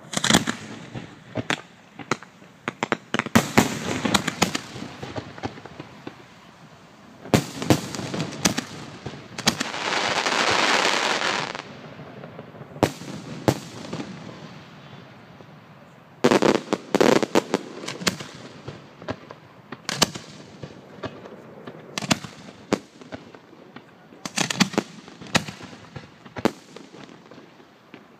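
Fireworks display: aerial shells bursting in clusters of sharp bangs, sometimes several a second, with a hiss of about two seconds near the middle.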